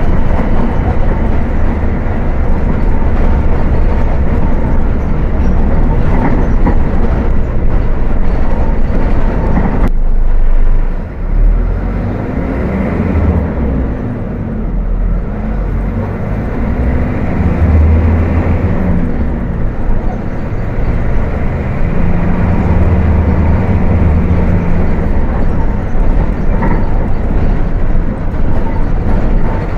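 Volkswagen 17.230 OD bus diesel engine running under way. A dense, rough rumble fills the first ten seconds and cuts off abruptly; after that the engine note rises and falls several times.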